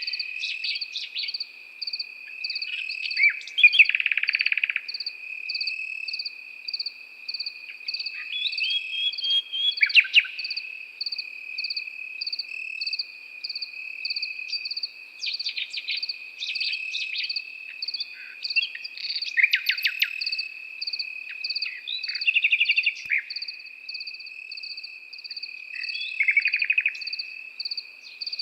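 Nightingale singing in short bursts of quick, varied phrases every few seconds, over the steady, evenly pulsing chirping of crickets.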